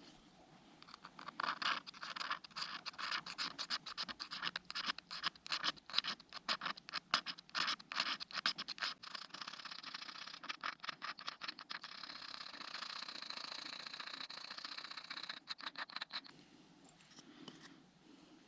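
Magnesium fire-starter block being shaved with its steel striker: many quick, rough scraping strokes that turn into a steadier continuous scrape, then stop a couple of seconds before the end.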